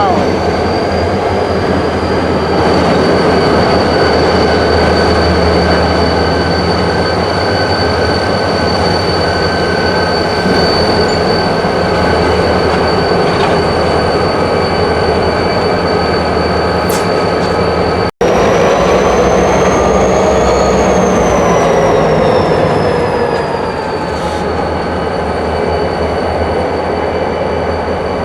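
Freight train moving through a rail yard: a steady rumble with a high, sustained wheel squeal. After a momentary dropout about two-thirds of the way in, the squeal rises in pitch and falls back again.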